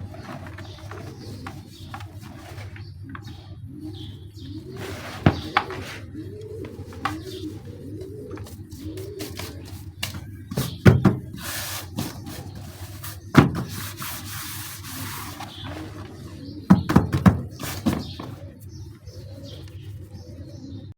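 Dry cement pieces crumbling and snapping, with a handful of sharp cracks and crunches about 5 s in, around 11 and 13 s, and in a cluster near 17 s. A dove coos repeatedly in the background, most clearly in the first half.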